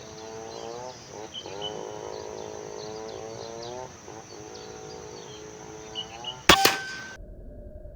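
A bird calling repeatedly in a run of rising calls over a steady high buzz, then, about six and a half seconds in, the single sharp crack of a PCP air rifle shot, after which the sound cuts off abruptly.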